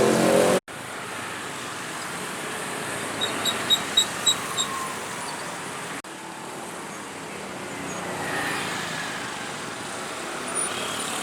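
Road traffic at a railway level crossing: a steady mix of passing cars and motorcycles, with a quick run of six short high-pitched beeps about three seconds in.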